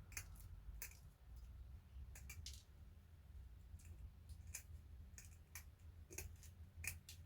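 Faint, irregular light clicks and ticks from small things being handled on a work surface, a dozen or so spread unevenly, over a low steady hum.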